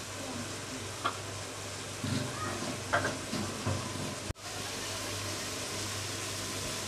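Potatoes and vegetables sizzling in oil in an aluminium pot, with a few short knocks as spice powders are tipped in from a tray. The sound drops out for an instant just after four seconds, then the sizzling carries on.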